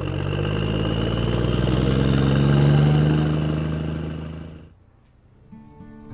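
A steady engine hum grows louder, peaks about halfway through, then fades away almost to nothing.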